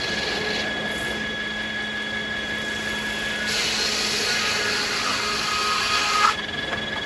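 Sawmill machinery running with a steady hum. About halfway in, a circular saw bites into American beech and cuts for roughly three seconds with a rushing, whining noise, which stops abruptly as the cut ends.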